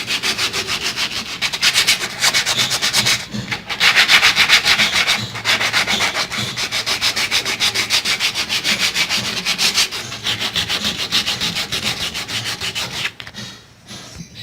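Fine 400-grit sandpaper rubbed by hand over the varnished wood of a cabinet in quick, repeated rasping strokes, with a few short pauses; it stops shortly before the end. The light scuffing cleans the old finish and keys it so the new varnish will stick.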